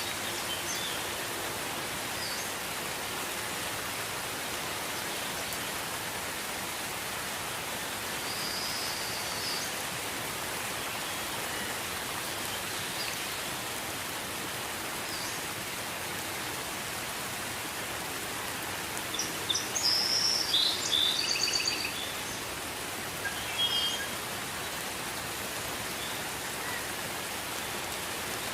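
Steady gentle rain falling. Birds chirp briefly over it now and then, with a short flurry of chirps about two-thirds of the way through.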